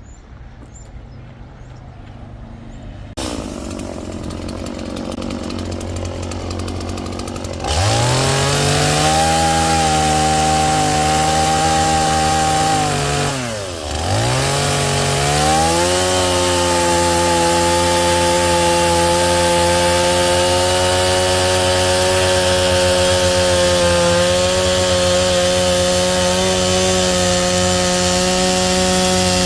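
An angle grinder fitted with a Kutzall shaping disc spins up about eight seconds in, runs at a steady high pitch, winds down almost to a stop near the middle, then spins up again and runs steadily.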